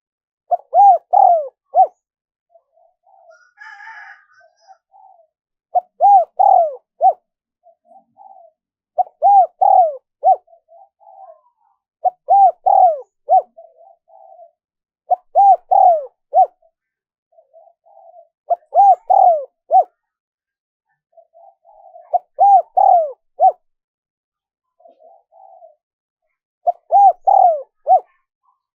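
Spotted dove cooing: a phrase of four or five notes repeated about every three seconds, with softer coos between the phrases. A faint brief higher chirp comes about four seconds in.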